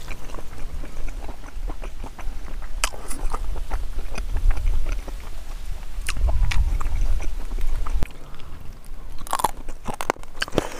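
Close-miked chewing and wet mouth clicks of a person eating rice and pig trotters by hand, with a low rumble in places.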